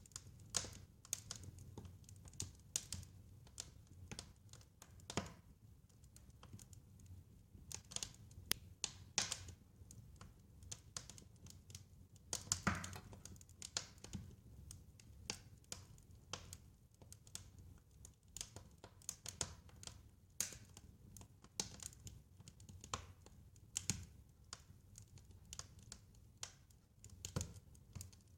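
Fireplace fire crackling: irregular sharp pops and snaps, several a second, over a faint low rumble, with one louder pop about halfway through.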